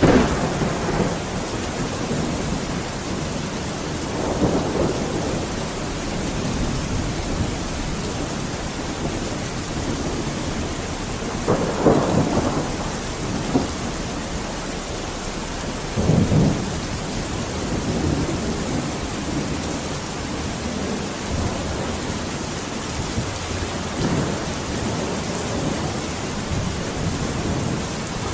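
Steady rain with thunder rumbling at intervals: five low rolls come and go over the steady downpour, the strongest right at the start and at about twelve and sixteen seconds in.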